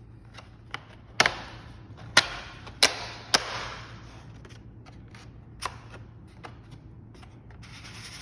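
Sharp knocks and snaps from window parts being fitted back into a double-hung window frame: a quick double knock, three more about half a second apart, then one more a couple of seconds later, with lighter ticks between them and a low steady hum underneath.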